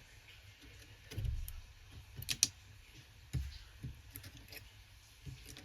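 Small hard parts being handled and set down on a workbench: scattered light clicks and taps, a dull thud about a second in and another just after three seconds, and two sharp clicks in between.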